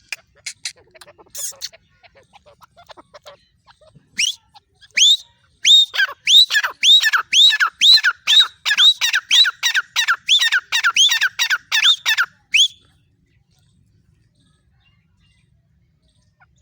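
Female francolin (teetar) calling: a few scattered short notes, then a fast run of about sixteen repeated sharp notes, each rising and then falling in pitch, roughly two or three a second for about seven seconds before it stops.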